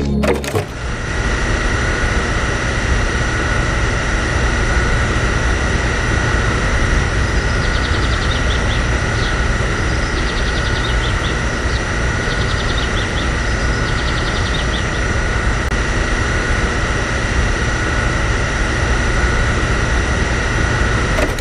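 Small electric motor running steadily with a high whine, as in a DIY mini tractor or chaff cutter drive. Light rapid ticking comes in a few short runs partway through.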